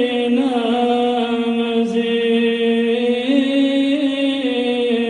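A man's voice reciting the Quran in slow, melodic tajweed style, holding one long drawn-out note. The pitch lifts slightly about half a second in and again a little after three seconds.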